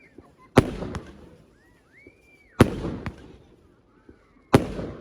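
Aerial firework shells bursting: three sharp bangs about two seconds apart, each trailing off over about a second. A faint whistle rises and falls between the first two.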